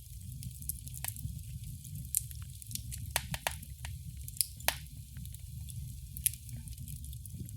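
Wood fire burning in a fireplace: a steady low rumble of the flames with frequent sharp crackles and pops, several louder pops a few seconds in.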